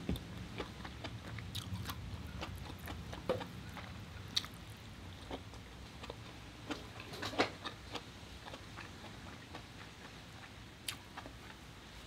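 A person chewing cooked lobster meat close to the microphone: soft wet mouth sounds with scattered small clicks, the loudest about seven seconds in.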